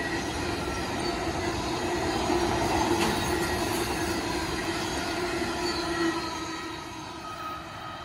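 Union Pacific intermodal freight train rolling past, its steel wheels running on the rails with a steady wheel squeal. The sound fades from about six seconds in as the last cars go by and the train moves away.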